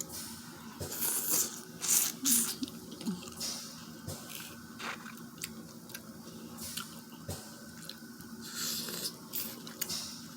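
Close-up eating sounds of a seafood boil: wet, squishy chewing and the handling of butter-sauce-coated seafood, in irregular bursts with a few sharp clicks.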